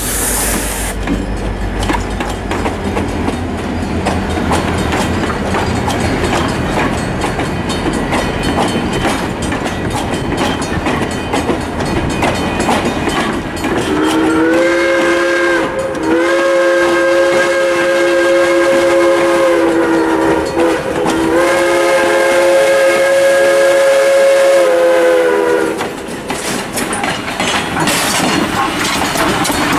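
Passenger train rolling past, wheels clacking over rail joints. From about halfway in, a train's multi-note chime sounds in long blasts for about twelve seconds, broken twice briefly.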